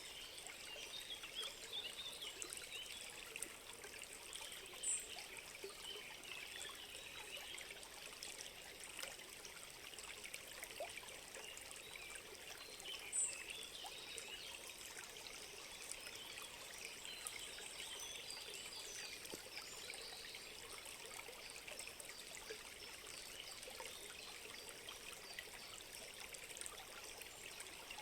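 Small stream trickling and babbling steadily, faint, with two brief sharp high ticks about five and thirteen seconds in.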